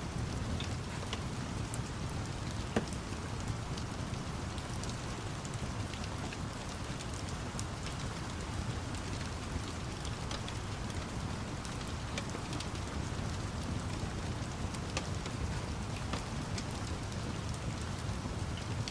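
Steady rain with a low rumble underneath, dotted all through with sharp pops and crackles of a wood fire.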